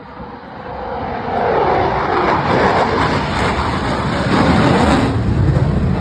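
Fighter jet making a low pass at an airshow: loud jet engine noise that swells over the first couple of seconds as it approaches, then drops in pitch as it goes by.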